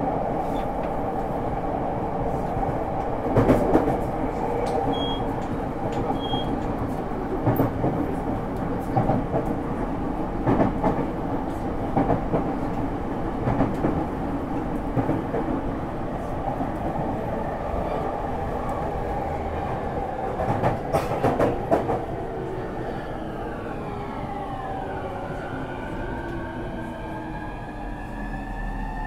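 Running noise heard inside a JR East E231 series 1000 commuter car: a steady rumble of wheels and motors with occasional rail-joint knocks. About three-quarters of the way through the sound gets quieter and the traction inverter's whine comes in, several tones gliding in pitch as the train slows toward a station stop.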